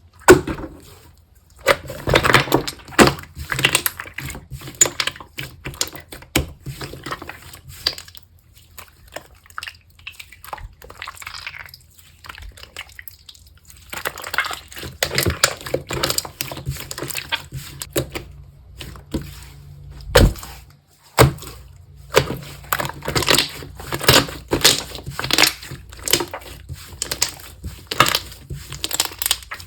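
Slime being squished, pressed and stretched by hand, giving dense runs of sticky crackles and small pops. The crackling eases off briefly twice.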